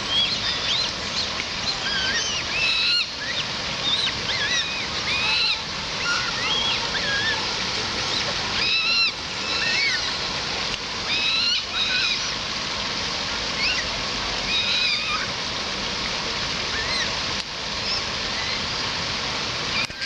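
Many birds calling at once with short, bending chirps that overlap throughout, over a steady rushing background noise.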